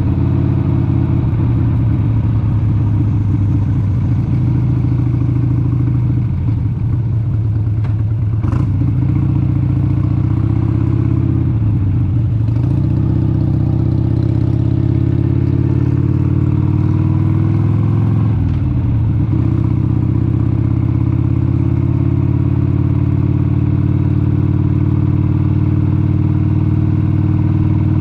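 1996 Harley-Davidson XLH883 Sportster's air-cooled 883 cc Evolution V-twin running under way. The engine note holds steady, dips briefly about three times and climbs again each time.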